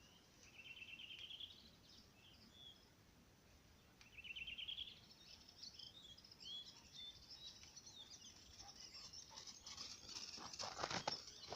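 Small songbirds singing in a forest: a short trill of quickly repeated high notes twice, about four seconds apart, then a scatter of chirps. A few rustling clicks come near the end.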